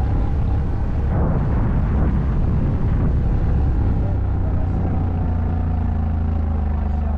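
ATV engine running loudly, rough and uneven at first, then settling into a steady drone about four and a half seconds in.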